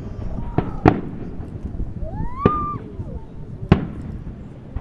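Fireworks going off: four sharp bangs, two close together about half a second to a second in, another at about two and a half seconds and one near four seconds, over a steady low rumble of further bursts.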